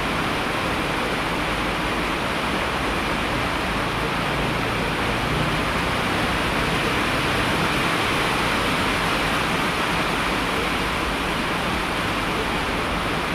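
Steady rain falling: an even rushing hiss with no single drops or breaks standing out.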